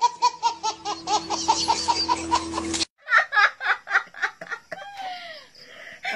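A baby laughing in quick, rhythmic bursts for about three seconds, cut off abruptly. After that, two women laugh.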